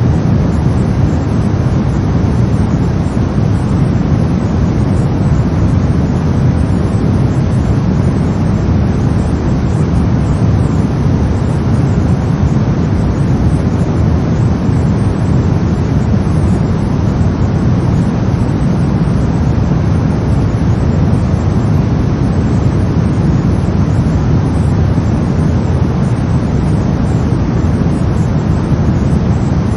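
Brown noise: a steady, deep rumbling hiss, strongest in the low end and falling away toward the highs, with no change.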